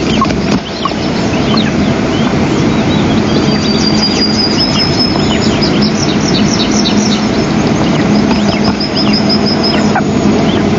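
Birds chirping: rapid series of short, high, thin chirps, with a long steady whistle about a third of the way in and again near the end, over a constant hiss and low hum.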